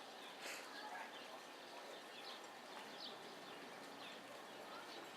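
Birds chirping faintly: short high chirps every second or so over a steady outdoor hiss.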